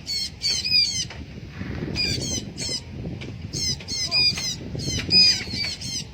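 Müller's parrot (blue-backed parrot) giving loud, harsh squawks in about four quick bursts of rapid repeated notes.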